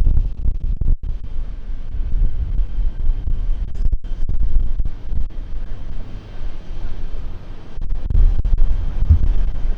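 Gusty wind buffeting the microphone, a heavy low rumble that swells and drops unevenly, loudest near the end.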